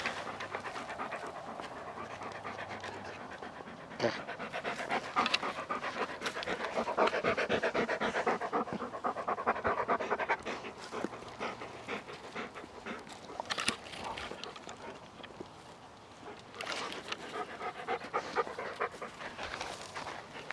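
A dog panting quickly and evenly, the breaths loudest for a few seconds in the middle.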